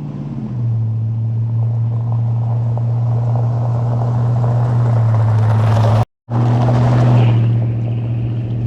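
Chevrolet Suburban's engine running steadily while driving, a loud, even low drone with road noise over it; it cuts out briefly about six seconds in, then carries on.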